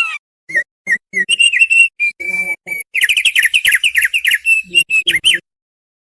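Thick-billed heleia (opior paruh tebal) singing: a string of short whistled notes that speeds into a rapid, varied chattering phrase and stops abruptly about five seconds in.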